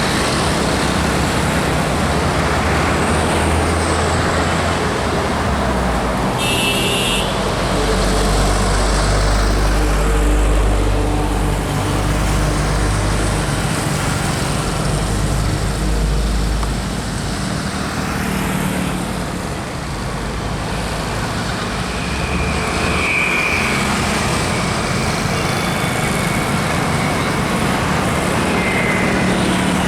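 Road traffic noise with heavy vehicles passing, a truck or bus engine rumbling deeply for about ten seconds from roughly six seconds in. A short, sharp high-pitched burst sounds about seven seconds in.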